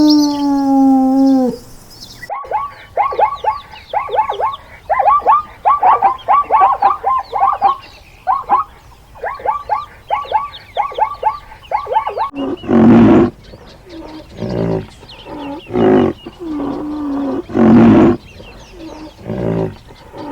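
A succession of farm animal calls. First a long pitched call ends about a second and a half in. Then comes a run of rapid short chirping calls, and from about twelve seconds on, loud harsh calls repeated every second or two.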